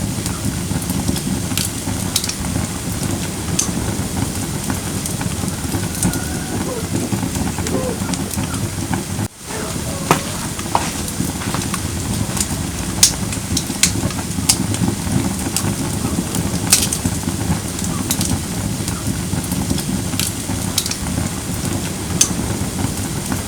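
Firewood burning in a fire pit: a steady low rush of flame with sharp crackles and pops scattered irregularly throughout. The sound drops out for a moment about nine seconds in.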